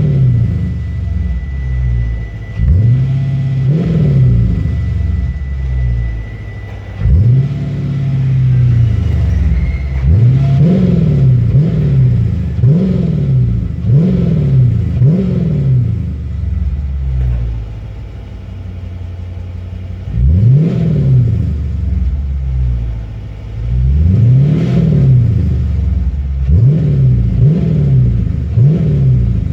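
2016 Dodge Charger R/T's 5.7-litre Hemi V8 through Borla Pro XS mufflers with an X-pipe and no resonators, free-revved in a series of throttle blips, each rising and falling in pitch, some one at a time and some in quick runs of four or five, dropping back to a rumbling idle between.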